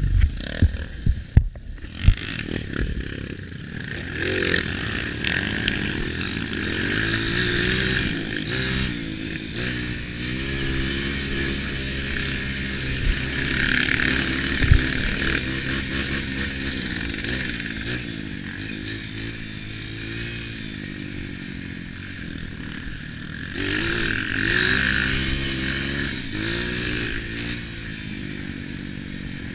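Off-road trail motorcycle engines running and revving, several at once, their pitch rising and falling; a few sharp knocks in the first couple of seconds.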